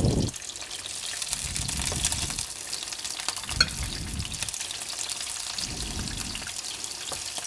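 Shrimp frying in a pan, a steady sizzle full of fine crackles. They are being fried only until half-cooked and lightly browned.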